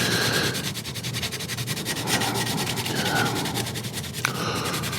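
Hand scrubbing on the wood of an antique chair: continuous rubbing strokes, cleaning off old oils and wax with a solvent cleaner.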